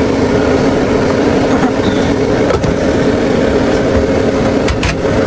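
A motor running steadily: a continuous low hum with a few brief clicks, one about halfway and two close together near the end.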